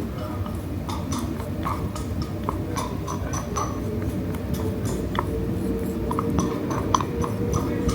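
Scattered light clicks of a utensil against a bowl as sticky natto is moved onto rice, over a steady low background hum.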